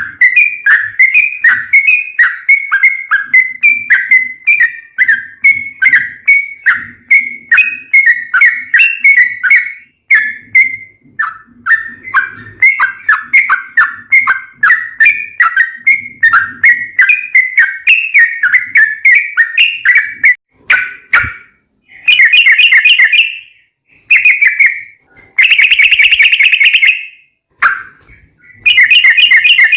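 Yellow-vented bulbul (trucukan) singing: a long run of short, bubbling notes at about two to three a second for some twenty seconds. From about 22 s it changes to fast, dense chattering bursts of a second or two with short breaks between them, the long 'ropel' phrases valued in a lively 'gacor' bird.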